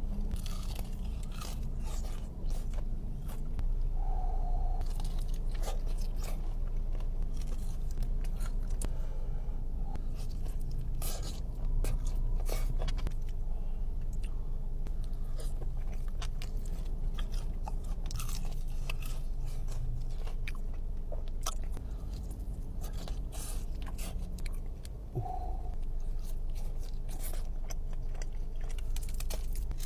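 Close-up mukbang eating: crunchy bites and chewing of crispy fried Wingstop chicken wings, irregular crackling crunches throughout over a low steady hum.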